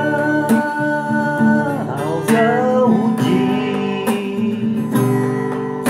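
Acoustic guitar strummed about every two seconds under a voice holding long, wordless sung vowels.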